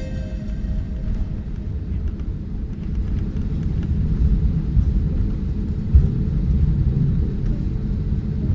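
Cabin rumble of an Airbus A320-200 heard from a window seat on the ground just after landing: a steady low rumble of engines and wheels on the runway, growing a little louder partway through, with a single thump about six seconds in.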